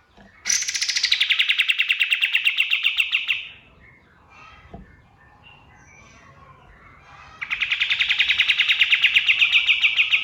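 Kapas tembak singing two long, fast trills of about ten notes a second, each about three seconds long. The first starts high and drops quickly to a steadier lower pitch; the second grows slightly louder and breaks off at the end. Faint chirps come in the pause between them.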